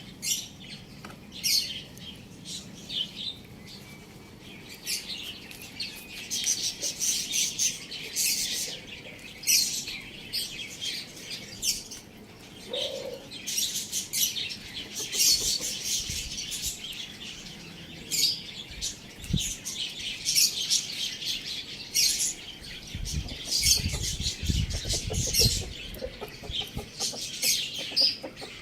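Small birds chirping busily in many short high notes, with wings flapping in several quick flurries a little before the end.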